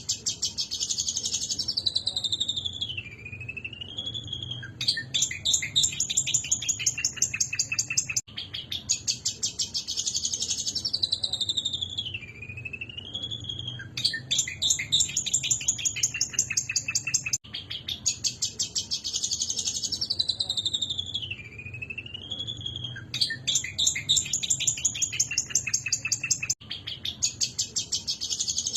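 Long-tailed shrike (cendet) singing: a fast rattling chatter of rapid repeated notes alternates with high whistled phrases that dip and rise in pitch. The same sequence repeats about every nine seconds with abrupt breaks, as in a looped recording.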